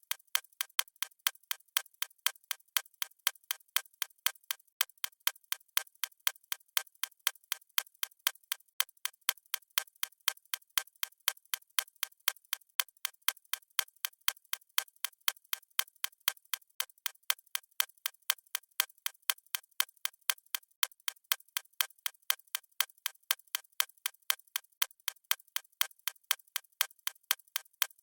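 Countdown timer's clock ticking sound effect: a steady, evenly spaced train of sharp, thin clicks with no low end.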